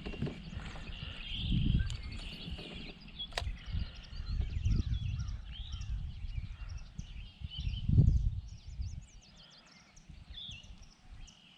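Wind buffeting the microphone in uneven gusts, strongest about eight seconds in and easing near the end, with small birds chirping throughout. There is one sharp click about three seconds in.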